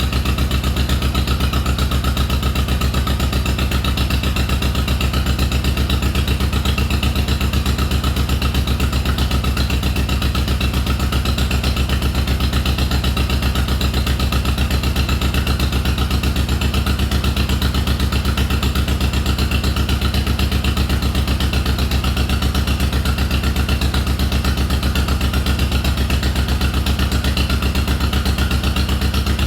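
1952 John Deere MT's two-cylinder engine idling steadily, an even run of firing pulses with a strong low rumble.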